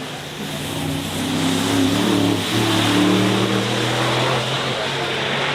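Koenigsegg Jesko Attack Plus's 5.0-litre twin-turbo V8 running at low revs as the car moves. Its note grows louder over the first three seconds with a brief dip in pitch about two and a half seconds in, then holds steady and eases off near the end.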